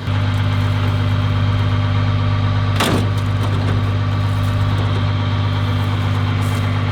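An engine idling steadily with a low, even hum. A short burst of noise cuts across it about three seconds in.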